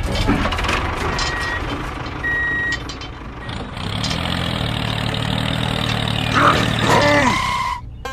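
Truck engine running, with two short high beeps in the first few seconds and a gliding, pitch-bending sound near the end.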